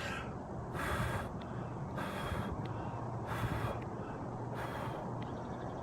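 A man breathing close to the microphone, slow and even: an airy breath about every second and a half, with a faint steady hum beneath.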